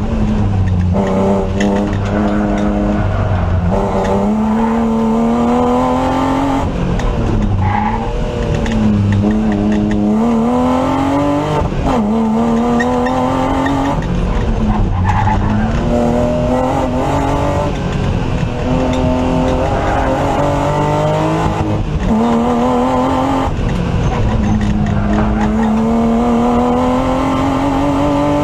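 BMW E36 328 rally car's straight-six engine, heard from inside the cabin, pulling hard. Its revs climb and then drop sharply again and again through the gear changes.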